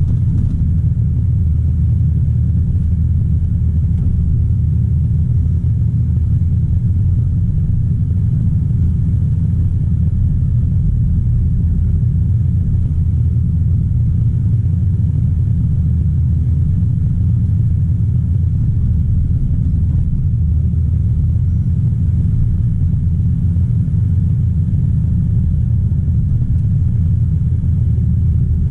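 Diesel engine of a Caterpillar 973C track loader running under a steady load: a constant low drone with no clear revving up or down.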